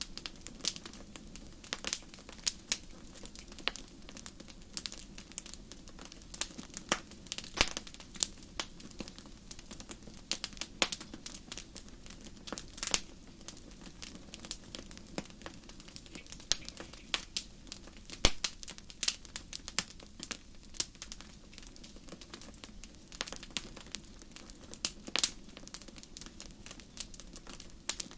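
Fireplace fire crackling: irregular sharp pops and snaps, some much louder than others, over a steady low rumble of flame.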